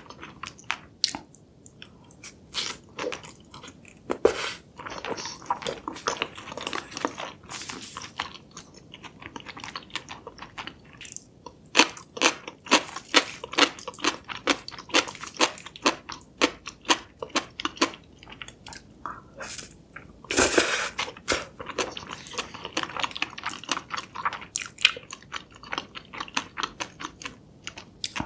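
Close-miked chewing of jjajangmyeon, thick noodles in black bean sauce: a steady run of short, moist chewing clicks, at times about three a second, with a longer, louder rush of sound about twenty seconds in.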